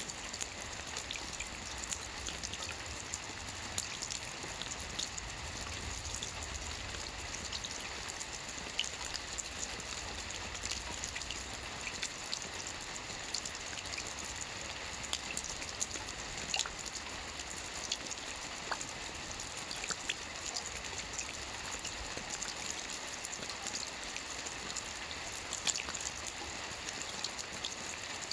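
Soft rain falling on a roof: a steady hiss with many light drop ticks scattered through it.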